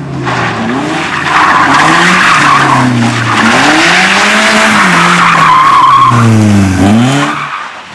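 Race car sliding with its tyres screeching loudly for about six seconds while the engine revs rise and fall. The skid ends near the end and the engine note drops back.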